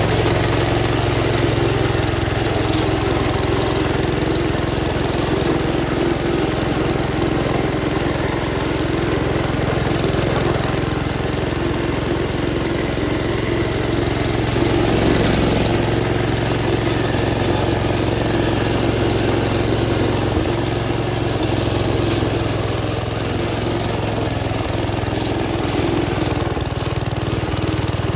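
Gravely Commercial 10A walk-behind tractor's engine running steadily, driving a Dogeater snowblower attachment.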